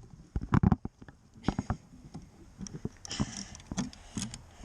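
Bicycle chain being refitted by hand after coming off the chainring: irregular metallic clicks and rattles of the chain, sprockets and crank, some sharp and loud.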